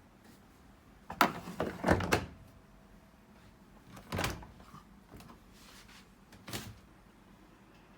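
Knocks and rattles of a Sharp ES-S7B washing machine being handled: a cluster of thunks about a second in, then single thunks around four seconds and six and a half seconds.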